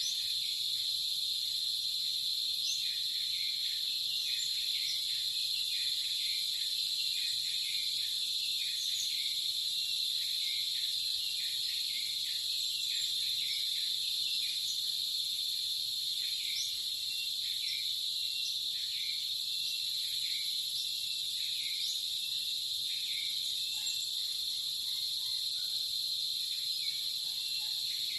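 Insect chorus: a steady, unbroken high-pitched trill, with many short chirps dotted through it.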